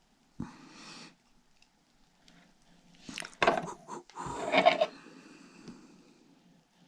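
Workbench handling noises: a knock and a short rustle, then a louder stretch of clattering and scraping about three seconds in.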